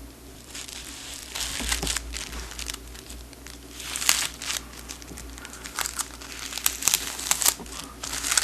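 Thin cellophane wrapper on a brick of firecrackers being handled and pulled off, crinkling and crackling in irregular bursts that get busier over the last few seconds.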